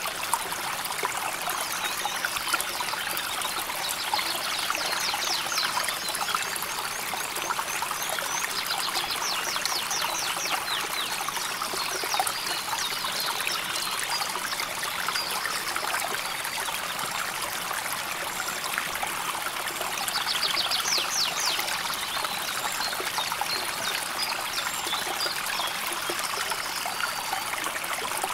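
River water flowing and trickling steadily over stones. A few times there is a quick series of high chirps, from birds.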